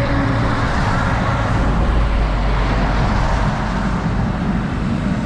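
Steady low rumble and roar of running machinery, the deepest rumble strongest in the first few seconds and easing a little toward the end.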